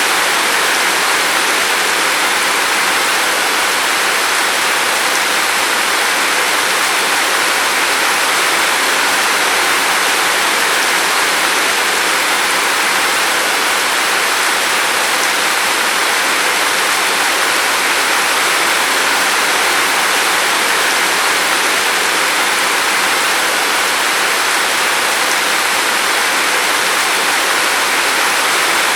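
Steady rain falling outside a window: an even, unbroken hiss of rain.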